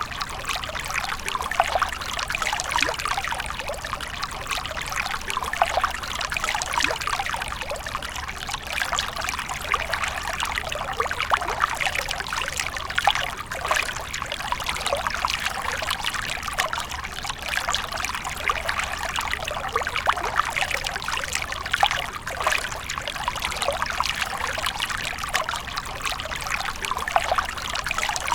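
Water fountain splashing and trickling steadily, a continuous bubbling patter of falling water.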